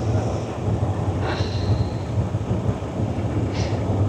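Honda CRF300 dual-sport motorcycle's single-cylinder engine running steadily while riding, with wind rushing over the microphone.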